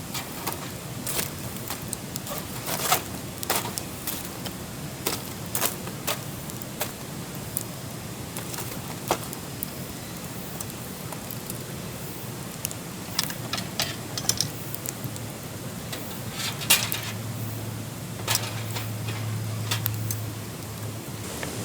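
Wood campfire crackling, with irregular sharp snaps and pops over a steady hiss, and a low hum for a few seconds near the end.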